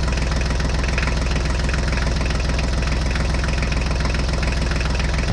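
Tractor engine idling steadily with a fast, even knocking beat.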